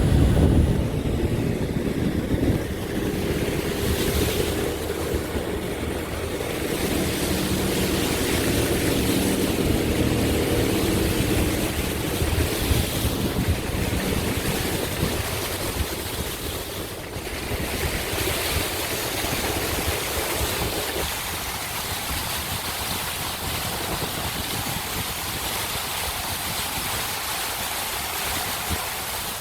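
Steady rushing hiss of heavy rain and wind. A low engine hum runs under it for about the first twelve seconds, then fades out.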